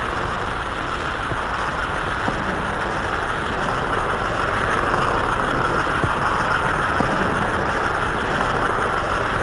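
American Flyer electric model train running steadily around the layout, a continuous rumbling whir of wheels and motor on two-rail track.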